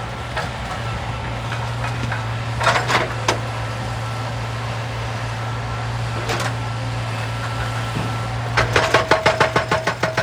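Excavator engine running with a steady low drone, with a few scattered knocks of rock and metal. About two seconds before the end a fast, even run of strikes sets in, about eight a second.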